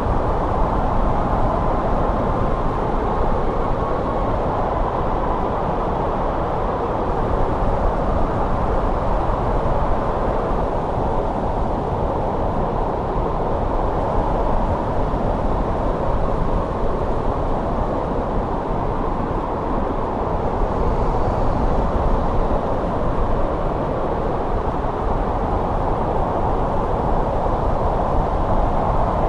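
Steady winter wind blowing: a dense, deep rush with little high hiss, swelling and easing slightly now and then.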